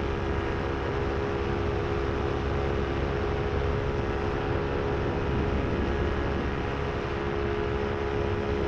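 Vittorazi Moster 185 single-cylinder two-stroke paramotor engine running steadily in flight, a constant drone with propeller hum, under wind rushing over the microphone.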